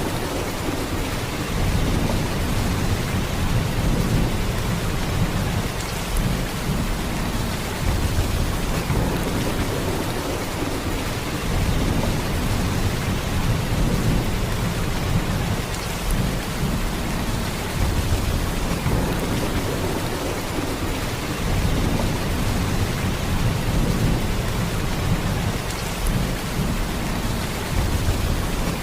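Heavy rain falling in a steady downpour, a dense hiss with a deep low rumble underneath that swells and eases every few seconds.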